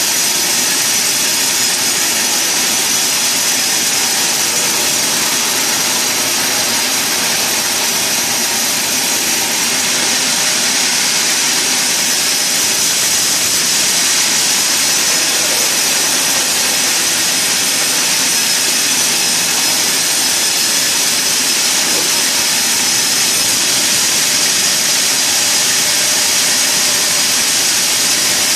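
Sawmill saw running steadily: a loud, constant machine noise with a high hiss.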